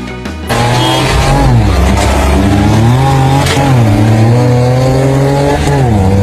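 Engine revving, its pitch dropping and climbing several times, starting abruptly about half a second in.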